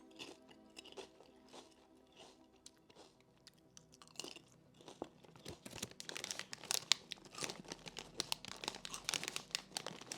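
Potato chips being crunched and chewed close to the microphone, sparse at first, then dense and louder from about four seconds in. Soft background music plays underneath.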